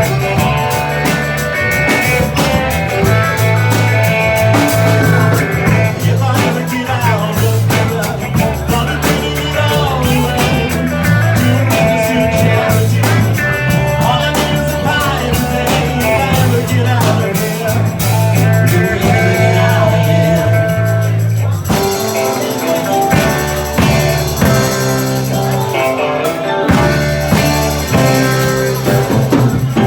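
Live rock band playing a song with electric guitar, bass and drums. The arrangement changes to a new section about two-thirds of the way through.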